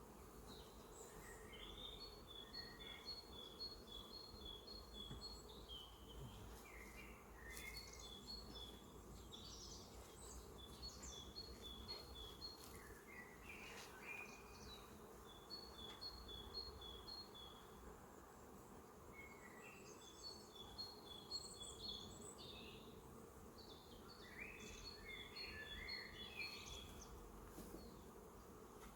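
Faint, steady buzzing of honeybees at their hives, with songbirds singing: every few seconds a quick phrase of alternating high and lower notes, plus scattered chirps.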